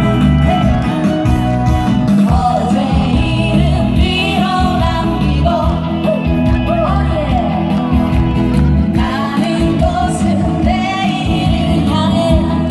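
Female singers performing a pop song live over loud amplified backing music with a heavy, steady beat.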